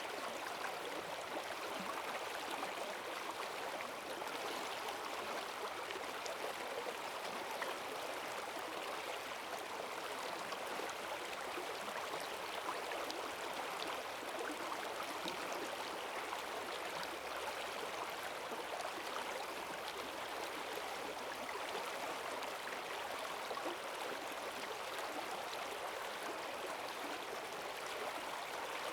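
Forest stream running high and fast after heavy rain, a steady rush of water over rocks with gurgling.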